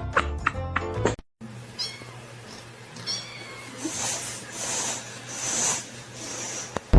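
Music with a steady beat cuts off about a second in. Then a cat meows, in short high calls, with breathy bursts of noise in between.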